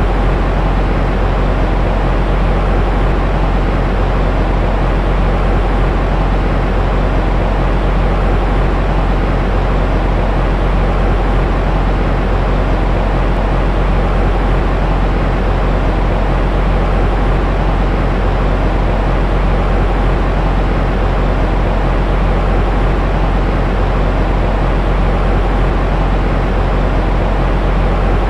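Steady sleep-sound noise for soothing a baby, a deep rumbling hiss heavy in the bass that never changes.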